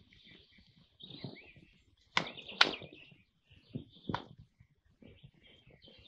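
Birds chirping, with faint rustling and three sharp knocks, two close together about two seconds in and one about four seconds in.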